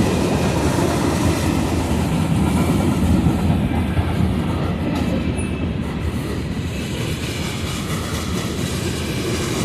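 Mixed manifest freight train rolling past a crossing: a steady rumble of railcar wheels on the rails with some clickety-clack.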